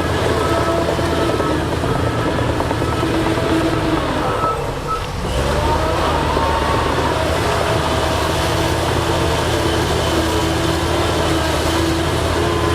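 Heavy diesel engine of earthmoving machinery running under load, with a low, steady drone. About four and a half seconds in it eases off for a moment, then picks up again with a shift in pitch.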